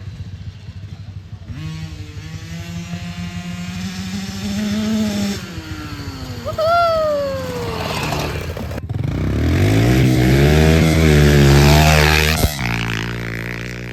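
Dirt bike engine revving and accelerating, its pitch climbing and dropping as the throttle is worked, loudest in a long run of revs over the last third.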